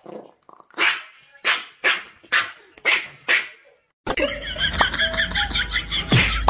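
Small dog barking, a run of sharp, high barks about two a second. They stop after about four seconds, when music begins, with a single sharp thwack near the end.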